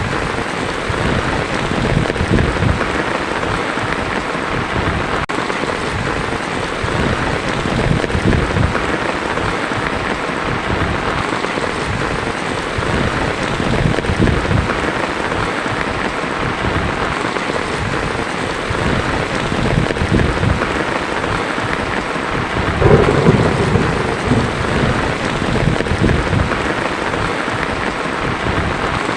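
Heavy rain falling steadily on a tin roof, with thunder rumbling low under it. A louder roll of thunder comes late on.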